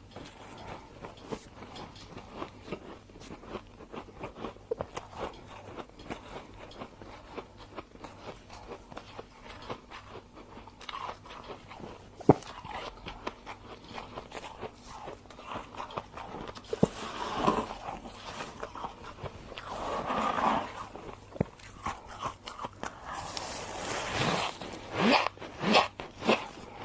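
Freezer frost being bitten and chewed: a dense run of small crackling crunches, with louder, squeaky crunching bites in the second half.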